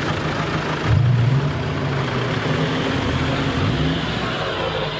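Off-road 4x4's engine running, with a short rise in revs about a second in, then running on with small changes in pitch.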